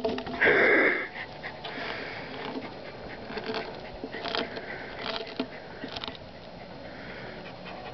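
Dog gnawing and biting at a wooden 4x4 post: scattered short cracks and clicks of teeth on wood, with a loud noisy burst about half a second in.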